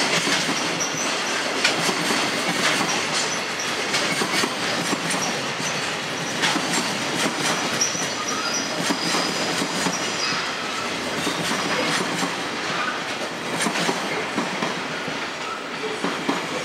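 Freight train wagons rolling past, wheels clattering over the rail joints in a steady run of clicks, with a thin high wheel squeal now and then.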